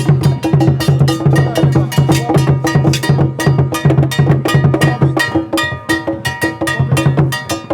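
Percussion music: fast, steady strikes over a repeating low drum pattern.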